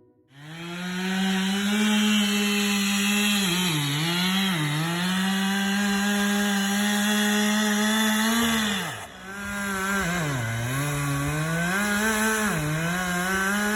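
Chainsaw running at high revs and cutting wood. Its pitch dips several times as the chain bogs under load, with a brief deeper drop in revs about nine seconds in.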